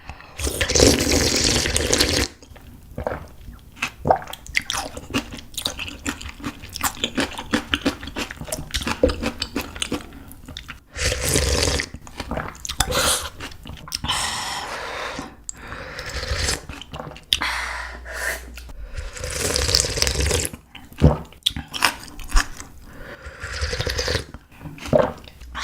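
Close-miked slurping of spicy ramen noodles and broth with egg, about five long slurps with wet chewing and lip smacks between them.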